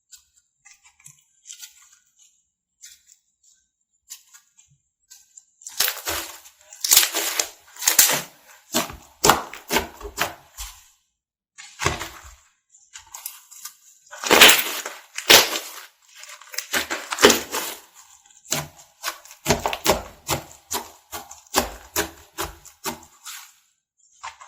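Slime with crunchy sprinkles being squeezed and pressed by hand, giving crackling and popping bursts. It starts with only faint clicks, then about six seconds in comes in repeated loud squishes.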